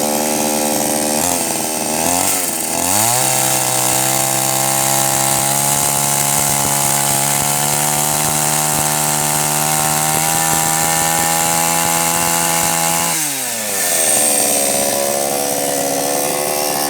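Two-stroke chainsaw cutting firewood: the engine revs up about three seconds in and runs steadily at full throttle for about ten seconds, then drops off suddenly and revs part way up again.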